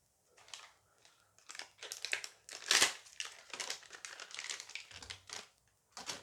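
Crinkling of a Dice Masters booster pack's wrapper as it is torn open and handled: irregular crackles, loudest about three seconds in.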